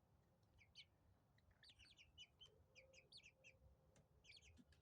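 Young chickens, about six to seven weeks old, peeping softly: faint, short, high chirps in quick little clusters.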